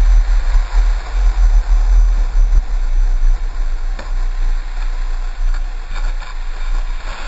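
Heavy, steady wind rumble buffeting the microphone, over a rushing hiss.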